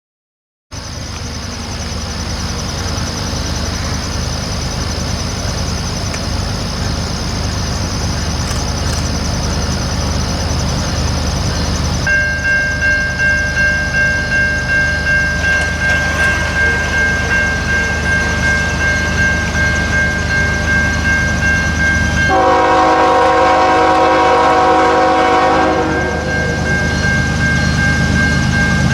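Freight train led by a GE ES44AC diesel locomotive approaching, its engine rumble building steadily. A grade-crossing bell starts dinging about 12 seconds in. From about 22 seconds in, the locomotive's multi-note horn sounds a long chord, breaks off briefly, then blows again near the end.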